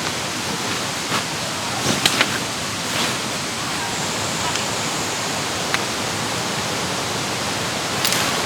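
Mountain valley stream rushing over rocks, a steady full rush of water, with a few light clicks or taps on top, one pair about two seconds in and another near the end.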